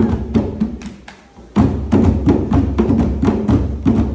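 Percussion-driven music with a fast run of drum strikes. It fades out about half a second in, then comes back in full about a second and a half in.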